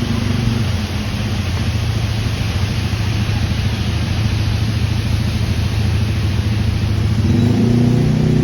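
Steady rushing noise of a flooding waterfall, mixed with the steady hum of a motor vehicle engine running close by. The engine note grows louder and fuller near the end.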